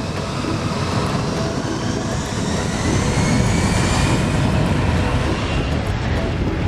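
Jet airliner engines running at high power close by: a loud, steady rush with a thin whine that rises in pitch partway through.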